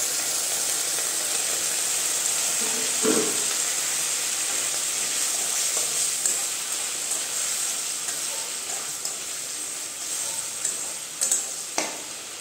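Hot water poured into a kadai of frying masala, rice and cabbage, setting off a steady sizzle that slowly dies down while a wooden spatula stirs. There are two sharp knocks near the end.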